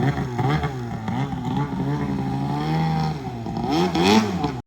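A motor engine revving up and down over and over, its pitch rising and falling, until the sound cuts off abruptly near the end.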